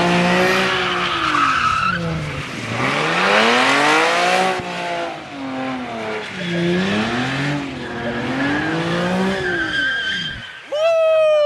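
A car engine revving up and down again and again while its tyres squeal and skid, a car doing donuts or a burnout. Near the end a loud, high tyre squeal slides down in pitch.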